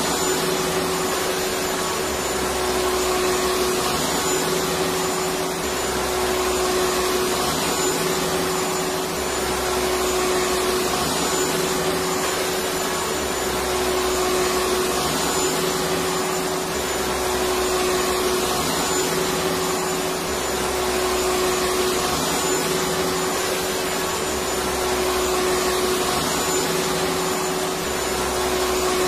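Vacuum cleaner running steadily, a continuous motor whine and rush of air with a constant hum tone and a gentle, regular swell every few seconds.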